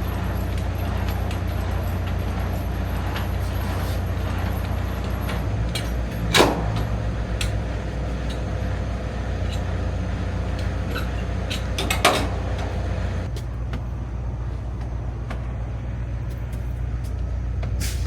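Semi-truck engine running steadily, heard from inside the cab, with two short sharp sounds, one about six seconds in and another about twelve seconds in.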